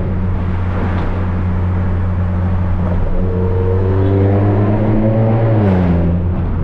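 Volkswagen Polo GTS's turbocharged four-cylinder, stage 2 tuned with a sport exhaust, running steadily, then rising in pitch under acceleration from about three seconds in, with the revs dropping quickly near the end.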